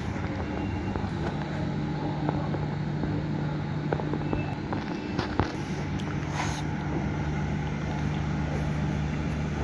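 A motor vehicle's engine running with a steady low drone and a few light knocks. The drone dips briefly about five seconds in.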